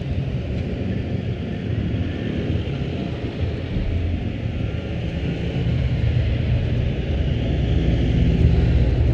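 Kawasaki ZX-25R's 250cc inline-four engine with an Akrapovic exhaust running on the move, with some wind noise, getting louder over the last few seconds.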